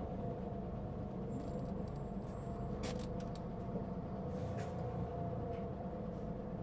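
Cabin sound of a Mitsubishi Fuso Aerostar LKG-MP37FK city bus: a steady low engine drone with a steady whine of two tones over it, and a couple of short clicks about three seconds in and again a second and a half later. This bus was noted for a strong abnormal noise.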